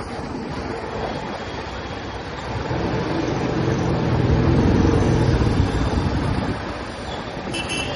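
Royal Enfield Classic 350 single-cylinder motorcycle under way in traffic, its exhaust mixed with wind and road noise that swell louder for a few seconds in the middle. A vehicle horn toots briefly near the end.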